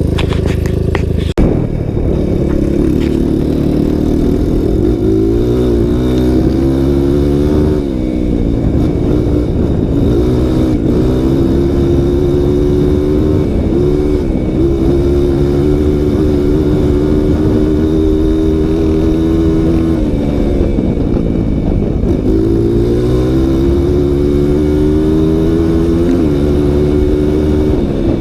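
Single-cylinder four-stroke trail motorcycle engine under way, its pitch climbing under throttle and dropping back again and again as it works through the gears. A sharp knock sounds about a second in.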